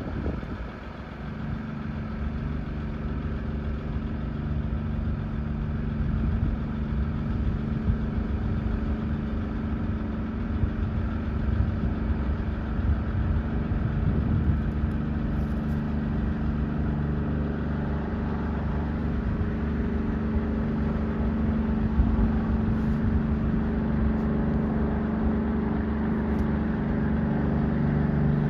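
Tugboat engine running at a steady, even drone with a low rumble underneath, growing gradually louder.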